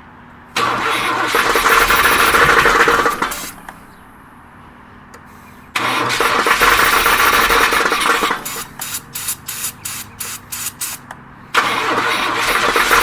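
A 1991 Pontiac Firebird being cranked by its starter in three tries without the engine catching; partway through the second try the sound breaks into quick, uneven pulses. The car is hard-starting and will not start.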